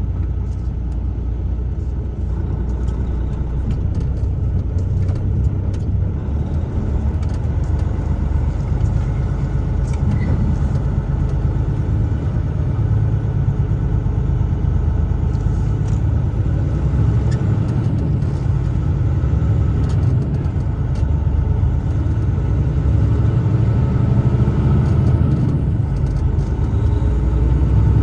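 Steady low rumble of a truck driving on the road, engine and tyre noise heard from the vehicle. It grows slightly louder near the end.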